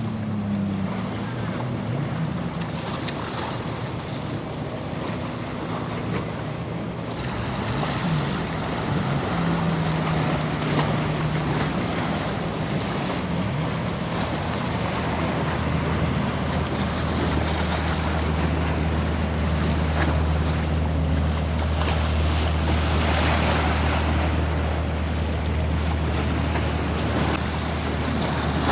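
Boat engine drone as a boat runs through the inlet, with surf washing against the jetty and wind on the microphone. The engine briefly dips in pitch a couple of times early on and grows louder and steadier about halfway through.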